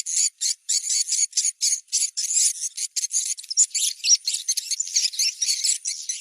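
Recorded swiftlet calls played as a site-check lure, the sound used to test whether swiftlets are around a place where a swiftlet house might be built. It is a dense, unbroken run of short, high chirps, several a second.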